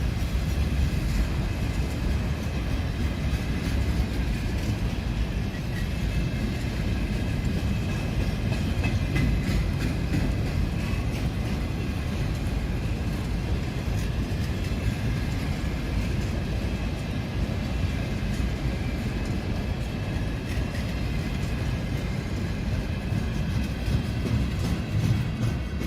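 A train rolling past for the whole stretch: a steady heavy rumble of wheels on rails with a run of rapid clicking.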